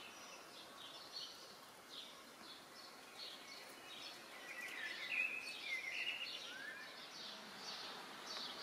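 Small songbirds chirping, a steady scatter of short high chirps that gets busiest about halfway through.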